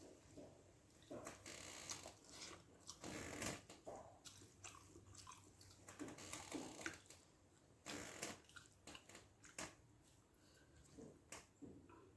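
Faint, irregular chewing and mouth sounds of a person eating rice with fish gravy, with scattered wet smacks and clicks.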